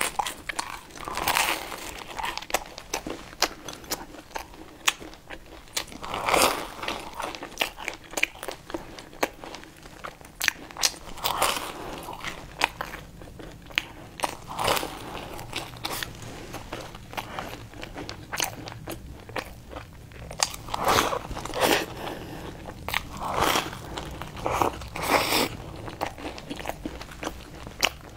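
Close-miked biting and chewing of crisp pastry: a dense run of small crunches and crackles, with louder bites every few seconds.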